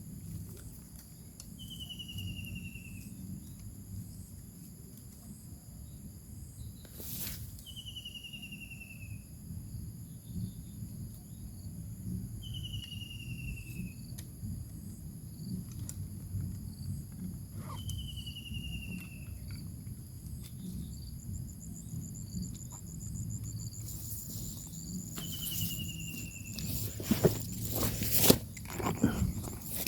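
A bird's whistled call, one clean falling note of about a second, repeated five times at intervals of roughly five seconds, over a steady high insect drone. Near the end a run of sharp knocks and rustles is the loudest sound.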